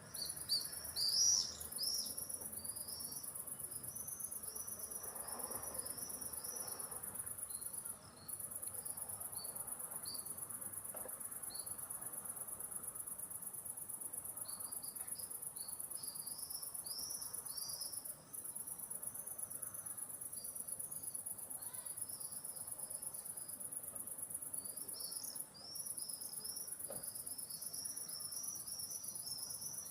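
A steady, very high-pitched insect trill, like crickets, that breaks off briefly three times. Over it, birds give many short, high chirps and twitters, loudest near the start.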